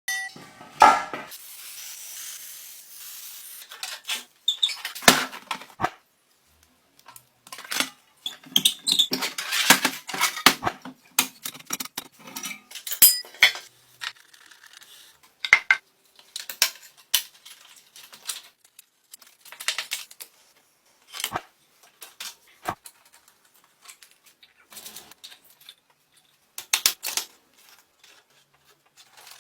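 Irregular metallic clinks, taps and scrapes of hand tools and metal parts being handled, with a steady hiss for the first few seconds.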